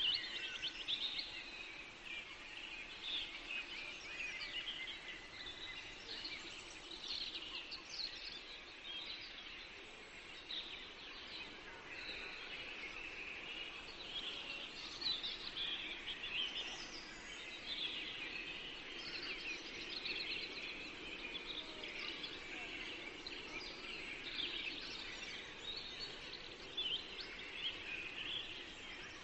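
Forest ambience of many small birds singing and chirping at once, a continuous dawn-chorus-like jumble of short high calls over a faint steady background hiss.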